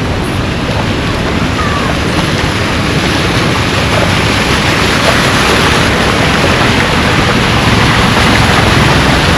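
Floodwater rushing along a road with no proper drainage: a loud, steady rushing noise that grows a little louder toward the end.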